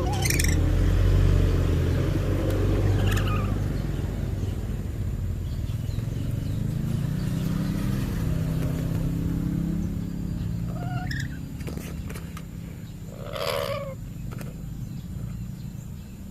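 A low motor rumble, like a vehicle engine running, under a few short, sharp calls from a pet lory parrot: one near the start, one about three seconds in, and two around eleven and thirteen seconds, the last the loudest.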